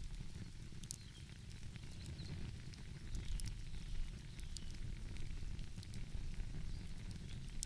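Wood fire crackling, with scattered sharp pops and snaps every second or so, over a steady low rumble.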